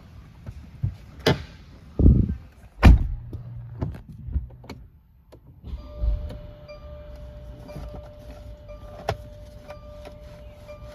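Handling noises from a car: clicks and two heavy thumps about two and three seconds in, then from about six seconds a steady electronic tone with a short chime repeating over it.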